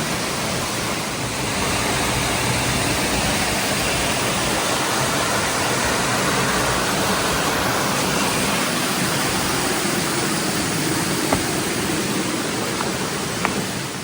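Waterfall rushing steadily, with a couple of faint clicks near the end.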